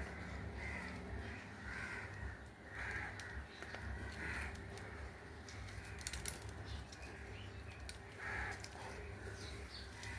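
A bird's short, harsh calls, repeated about five times in the first few seconds and once more near the end, over a low steady hum, with a few faint clicks in the middle.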